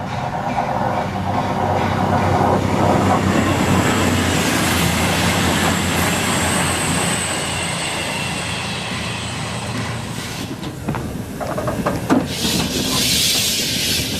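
Steam locomotive 60163 Tornado, a Peppercorn A1 Pacific, with its train running on the rails: a steady rumble, clicking over rail joints and a thin high squeal in the middle. Near the end comes a loud burst of hissing steam.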